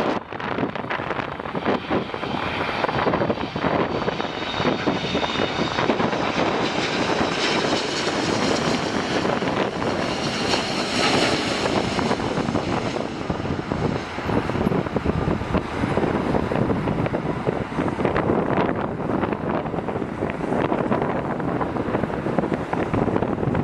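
Jet airliner's engines passing close by, their roar and fan whine building to a peak about halfway through and then easing, over wind buffeting the microphone.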